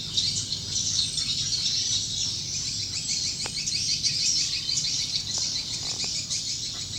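Swiftlets twittering: a dense, unbroken stream of rapid high chirps. It is a swiftlet call track of the kind played in swiftlet houses to lure the birds in to nest.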